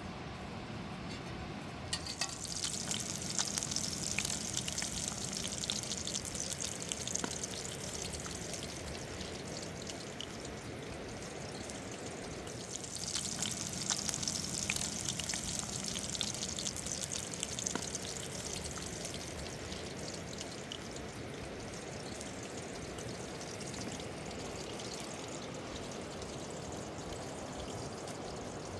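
Steady rushing of river water. A louder high hiss with fine crackling starts suddenly about two seconds in and swells again around the middle.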